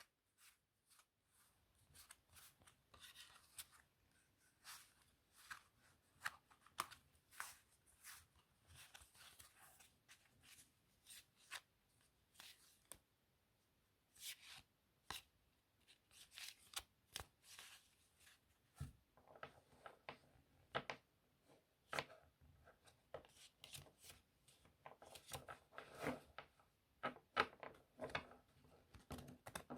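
Playing cards being shuffled and handled: faint, irregular clicks, snaps and short rustles of card stock.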